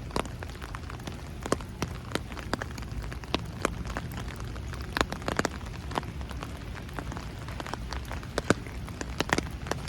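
Steady rain, with irregular sharp taps of single drops landing close to the microphone.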